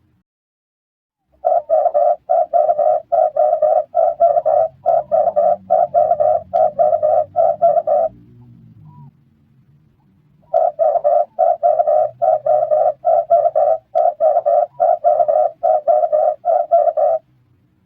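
Red turtle dove cooing: two long runs of quick, rough, evenly repeated coos, about three or four a second, with a pause of a couple of seconds between them.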